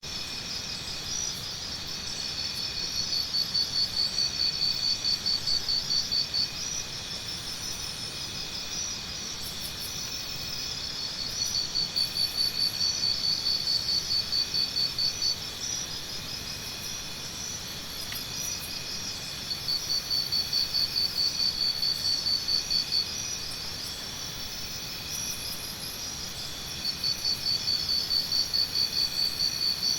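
Jungle morning ambience dominated by insect trilling: a steady chorus of high, pulsed insect calls. A louder pulsing trill of a few seconds comes back about every eight seconds, four times, with faint high chirps over it.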